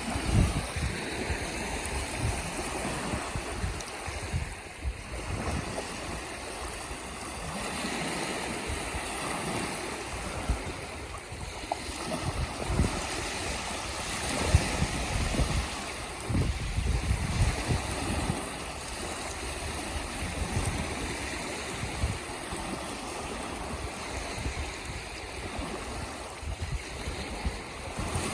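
Seawater washing and splashing in a steady, noisy wash, with irregular low rumbles of wind buffeting the microphone.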